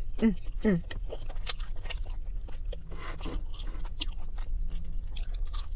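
Mouth sounds of a person chewing chicken nuggets close to the microphone: a run of wet clicks and smacks, with two short falling vocal sounds just after the start. A steady low hum runs underneath.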